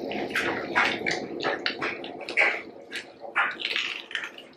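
Close-miked eating of garlic bread pizza: irregular wet chewing and mouth smacks, with bites, from several people.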